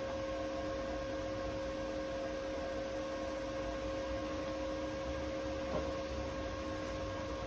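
Steady hum of a few fixed tones over a faint hiss, with a single faint tick near the end.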